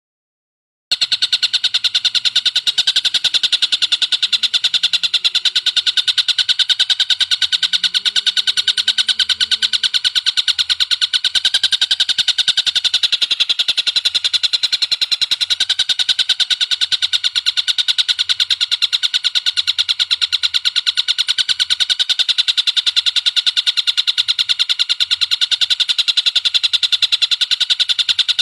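A bird calling in a fast, unbroken rattling trill of many notes a second, held without pause, starting after about a second of silence.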